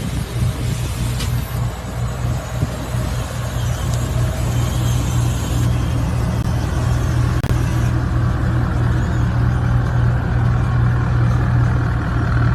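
A truck engine running with a steady, low drone and no change in pitch, under a haze of noise.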